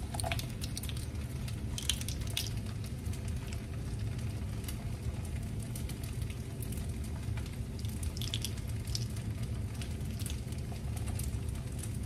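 Kimchi fried rice sizzling steadily in a wok over a gas burner, with a few faint taps as white pepper is shaken in from a small jar, once about two seconds in and again near eight seconds.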